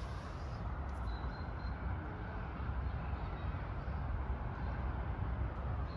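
Steady low rumbling outdoor background noise, with a faint high chirp about a second in.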